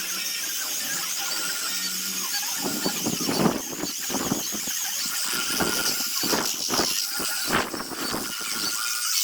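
Handheld power sanding tool running with a high, wavering whine. From about two and a half seconds in, an irregular grinding scrape joins it as the tool is worked against zelkova root wood.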